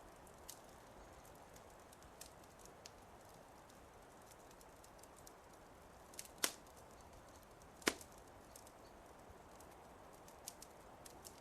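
Wood fire crackling softly: a faint steady hiss with scattered sharp pops and snaps, the two loudest a little past the middle.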